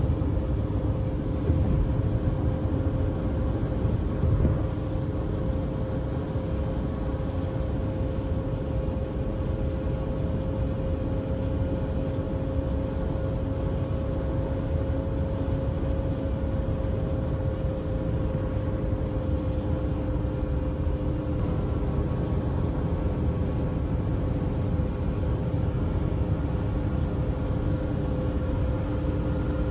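Steady low rumble of a moving vehicle, with an even drone running underneath.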